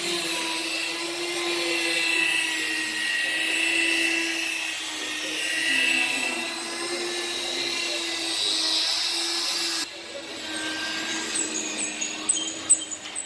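Electric rotary polisher running steadily while buffing a car bonnet, a constant motor whine with a hiss that swells and fades as the pad moves. It cuts off abruptly about ten seconds in, and a run of short, sharp high squeaks follows near the end.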